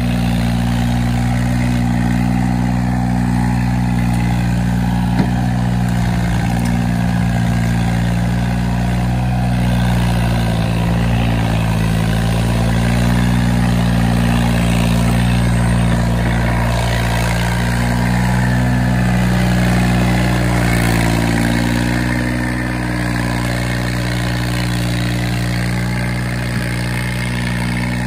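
Tractor engine running steadily with a deep, even drone, its speed wavering slightly now and then and easing down a little near the end.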